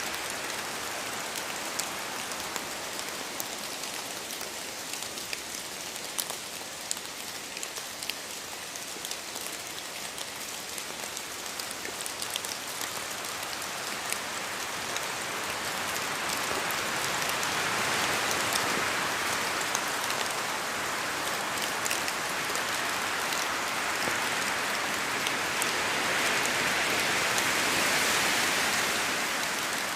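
Steady rain falling, with many individual drops pattering on a surface. It swells a little louder about halfway through and eases slightly near the end.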